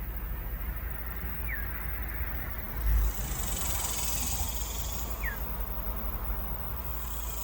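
Northern cardinal giving two short down-slurred whistled notes about four seconds apart, over a steady low rumble with a low thump about three seconds in.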